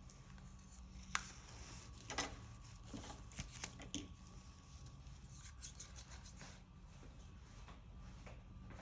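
Faint clicks, taps and light scrapes of painting tools and paint cups being handled, two sharper clicks early on and a flurry of small ticks about five to six seconds in, over a steady low hum.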